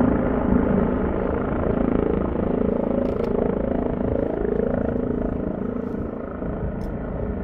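Yellow rescue helicopter hovering near the mountain peak: a steady rotor and turbine drone that eases slightly near the end.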